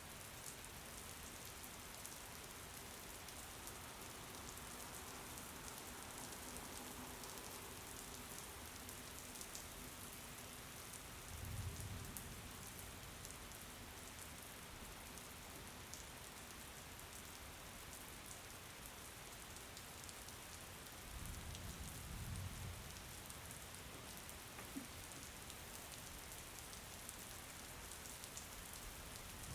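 Steady rain falling, a continuous hiss with a fine patter of drops. A low rumble rises and fades twice, about twelve seconds in and again a little after twenty seconds.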